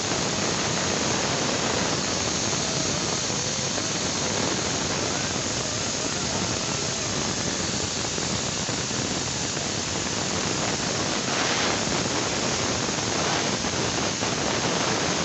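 A steady, loud hiss with no breaks, like a jet of air or spray in a machine shop.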